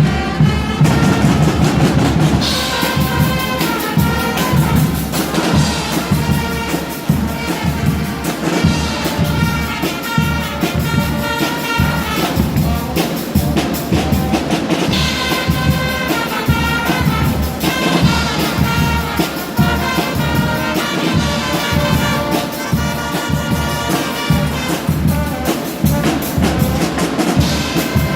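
Guggenmusik band playing: loud brass (trumpets and other horns) over drums and bass drum keeping a steady beat.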